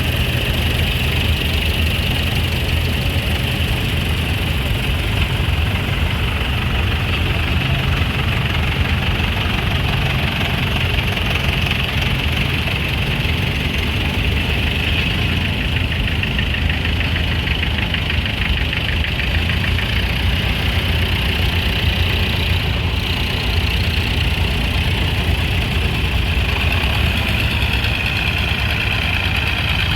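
An engine idling steadily, with an even, unchanging note.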